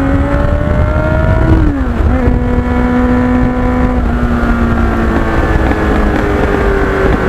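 Kawasaki Ninja motorcycle engine under way, its pitch climbing, then dropping sharply at a gear change about two seconds in, then holding steady. A constant low rumble runs beneath it.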